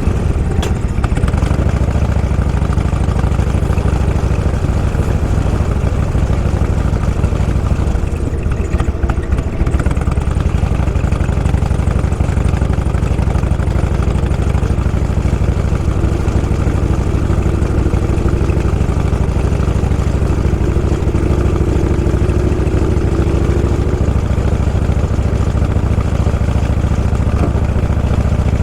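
Motorcycle engine running steadily at low speed, with a tone that rises slowly through the middle and then fades.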